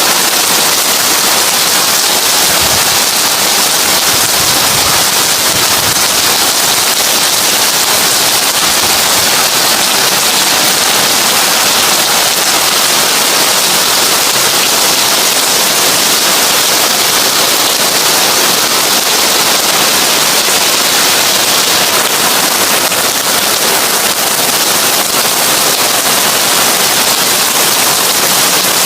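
Heavy rain falling on a tin roof: a dense, steady patter of drops on sheet metal that never lets up.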